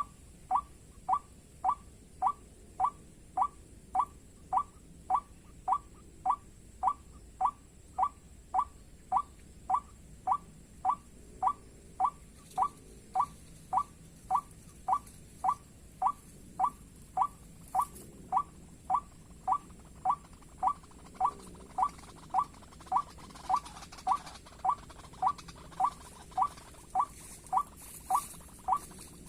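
White-breasted waterhen call, a short falling note repeated evenly just under twice a second without a break. It is the lure call played to draw the birds to the snares.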